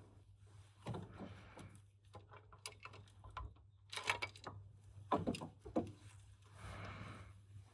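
Hand tools and metal parts being handled during car repair: scattered clicks, clinks and rustling, with a cluster of sharp metallic taps about four seconds in and more a second later, over a steady low hum.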